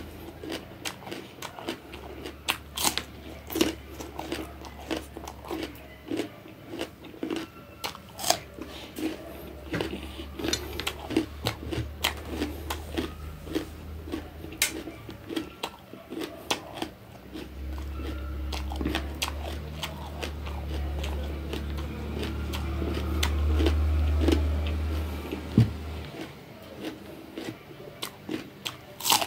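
A person biting and chewing raw bitter gourd (bitter melon), a steady run of crisp crunches. A low rumble comes and goes beneath it and swells in the second half.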